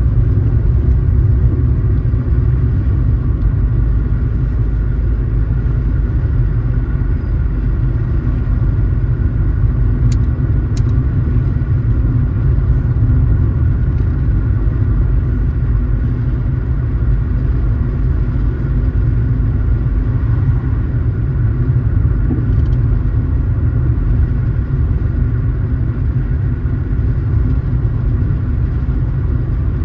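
Car driving at a steady pace: an even low rumble of engine and road noise, with two short faint clicks about ten seconds in.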